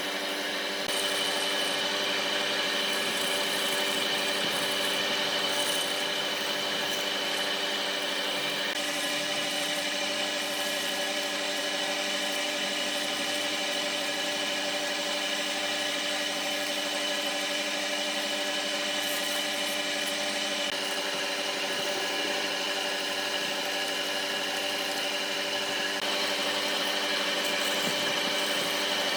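A woodworking power machine running steadily, its motor hum under the hiss of wood being cut or shaped; it gets louder about a second in.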